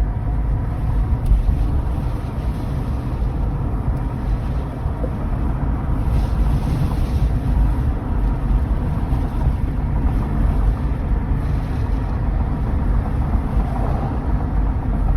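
Steady low rumble of a car driving, heard from inside the cabin: road and engine noise with no distinct events.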